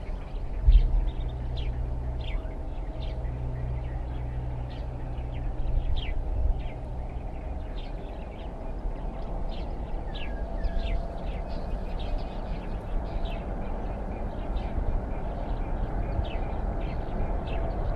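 Small birds chirping over and over in short, high chirps, over a steady low hum that fades out about seven seconds in. There is a brief thump about a second in.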